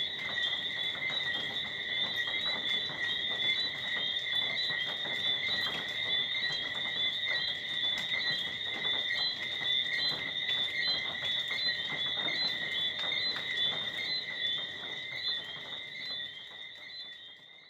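Tropical night chorus of crickets and frogs: a steady high trilling with short chirps repeating over it and scattered clicks, fading out near the end.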